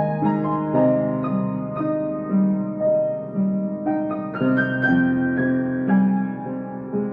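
Solo piano playing a slow, gentle melody, with a new note or chord struck about every half second and left to ring.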